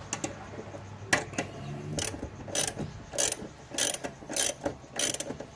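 Ratchet wrench clicking in repeated strokes, about one every half-second or so, as it cranks the forcing screw of a two-jaw gear puller to draw a stuck part off the engine's shaft.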